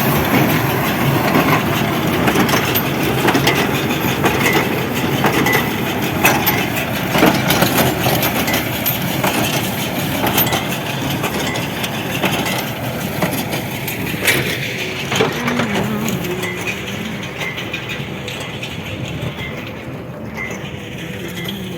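Tractor running with a small square hay baler at work, with many short knocks all through. It grows a little quieter over the last few seconds.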